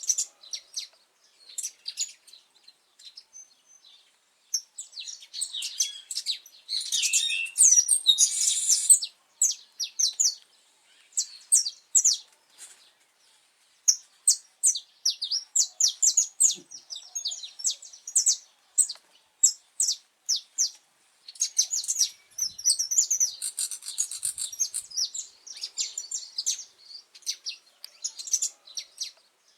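Saffron finch (canário-da-terra) singing: rapid runs of high, sharp chirps and warbling phrases, with short pauses, loudest a few seconds in.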